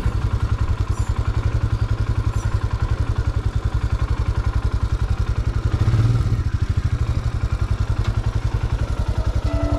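Royal Enfield Himalayan 411 cc single-cylinder motorcycle engine running at low revs with a rapid, even pulse, briefly louder about six seconds in.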